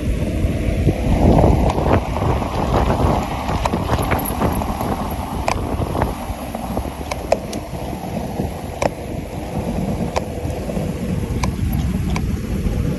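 Wind rushing and buffeting over the microphone of a camera riding on a bicycle going downhill, with scattered sharp clicks and rattles.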